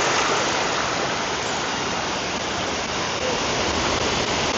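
Steady rushing of a large waterfall, an even noise with no breaks.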